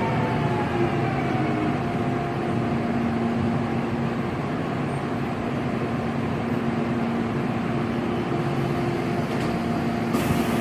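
Busan Metro Line 2 VVVF-inverter electric train running: steady rolling noise with a few steady motor and inverter tones. A brief burst of hiss comes about ten seconds in.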